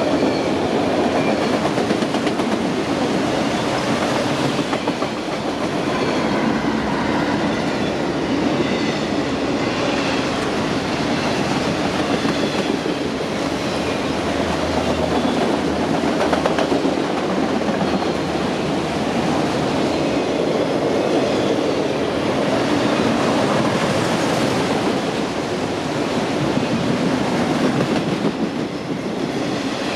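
A train rolling past: a continuous rumble of railroad cars and wheels on the rails, with faint high ringing tones from the wheels coming and going.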